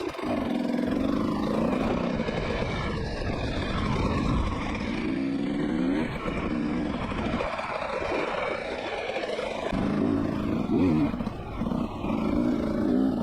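Motorcycle engine running on a ride, its pitch rising and falling with the throttle, over a rough low rumble of wind on the microphone.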